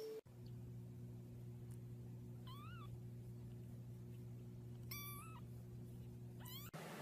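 A cat meowing three short times: high calls that bend up and then waver, the last one rising and cut off. A steady low hum runs under them.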